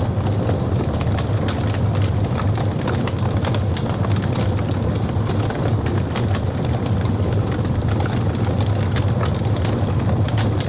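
Fire burning, with a steady low rumble under frequent sharp crackles and pops.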